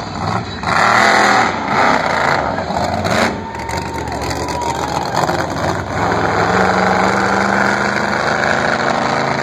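Monster truck engine running loud, its steady engine note coming through more strongly about six seconds in.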